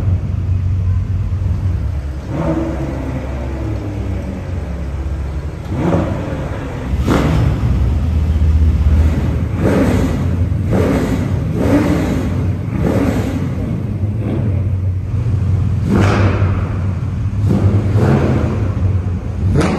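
Car engines running with a steady low rumble and revved repeatedly, about ten rises and falls in pitch, echoing in a large hall.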